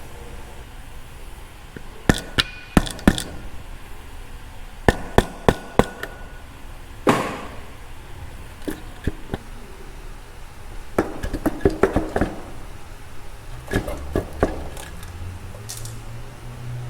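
Metal engine parts and hand tools clinking and knocking against each other in short groups of sharp taps while a motorcycle engine is taken apart. A low steady hum comes in near the end.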